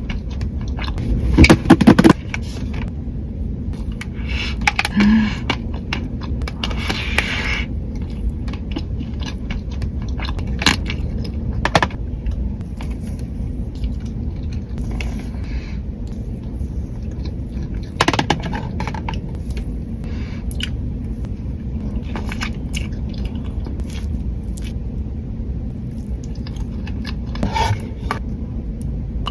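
Close-miked handling of a pistachio chocolate bar and its packaging: crinkling and scraping, with scattered sharp clicks and taps, over a steady low hum. The loudest clicks come a second or two in, and a longer stretch of crinkling comes about five to seven seconds in.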